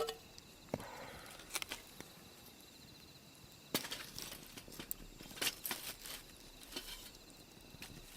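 A few scattered light knocks and clicks, spaced irregularly, over a faint steady high-pitched background tone.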